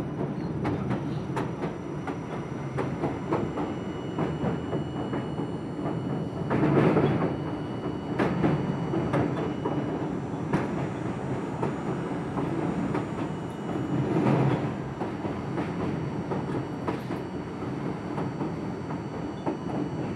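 R42 subway train running between stations, heard from inside the car: a steady rumble with clickety-clack of the wheels over rail joints, swelling louder twice, about seven and fourteen seconds in.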